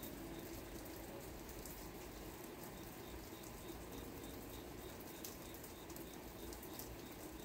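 Steady rain falling, with scattered light drip ticks.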